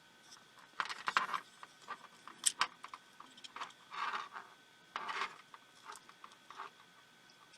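Small clicks, scrapes and rubs at irregular intervals from hand tools and tiny plastic and metal parts being handled while a pico projector is taken apart.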